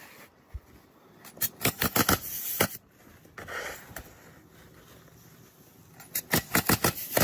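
Pneumatic roofing nailer firing nails through asphalt shingles in two rapid bursts of several shots each, one a little over a second in and one about six seconds in.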